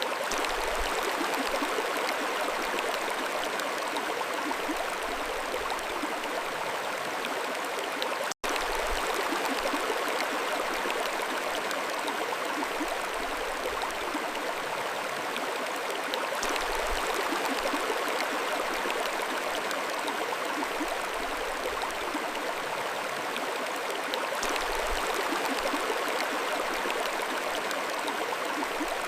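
Mountain stream flowing steadily, an even rush and babble of water, with a split-second dropout to silence about eight seconds in.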